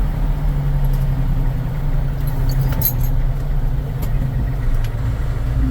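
Fire apparatus engine running steadily while under way: a low, even drone, with a few faint clicks.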